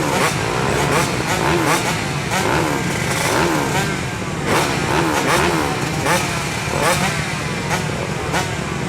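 A pack of motocross bikes' engines revving together, many overlapping engine notes rising and falling again and again.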